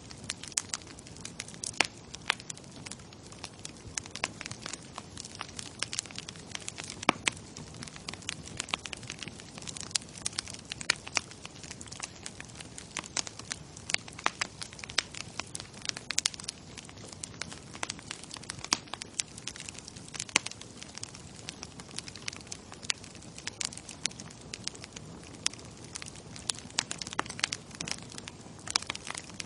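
Bonfire burning with a steady low rush of flame and frequent sharp, irregular crackles and pops of burning wood.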